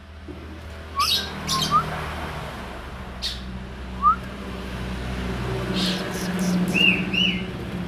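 Cucak jenggot (grey-cheeked bulbul) giving scattered short chirps: a few quick rising notes and two arched notes near the end, mixed with sharp clicky calls. This is a young bird that does not yet sing in full. A steady low hum runs underneath.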